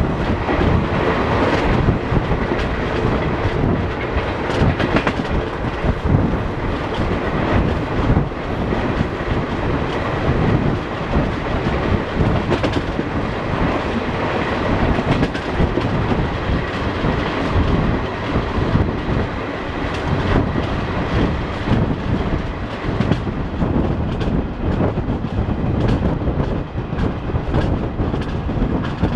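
Passenger train running at speed, heard from the coach doorway: a steady rumble and rush with the wheels clattering over the rail joints.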